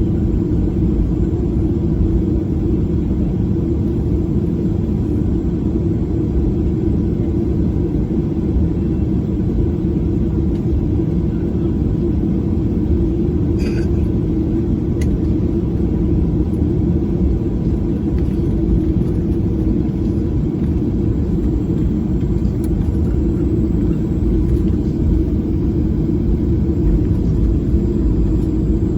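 Steady low rumble of a Boeing 737's engines heard inside the passenger cabin, even and unchanging throughout, with one faint click about halfway through.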